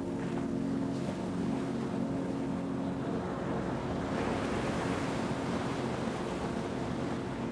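Ocean surf washing steadily, with a wave swelling up and breaking about four seconds in. A steady low drone runs underneath.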